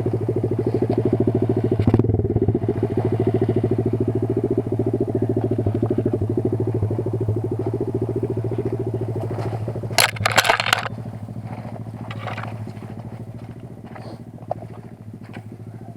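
Kayo 140 pit bike's single-cylinder four-stroke engine running steadily at low revs. A brief loud rough noise comes about ten seconds in, and after it the engine is quieter.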